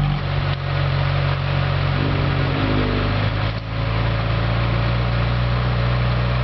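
Car engine idling steadily at a low, even pitch, settled after a start-up or rev.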